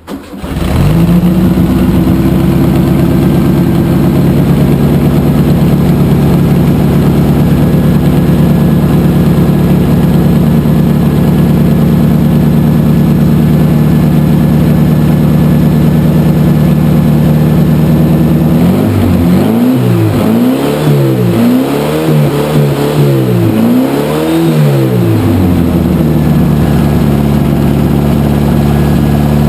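1975 VW Super Beetle's air-cooled flat-four, bored out to 1835cc, catches at once and settles into a steady idle that runs on the high side. From about 19 s in it is revved up and back down in a series of quick blips, then falls back to idle. The distributor has just been adjusted for a clean start.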